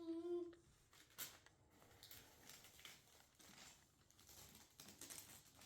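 Faint crinkling and rustling of packaging being handled, with scattered light clicks. A short held voice sound is heard right at the start.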